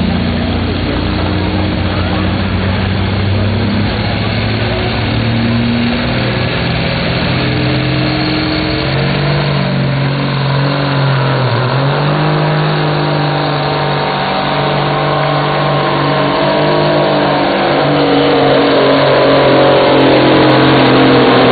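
A semi truck's diesel engine pulling hard against a truck-pull sled, a loud steady drone. It sags briefly in pitch about halfway through, then comes back up, and gets louder near the end.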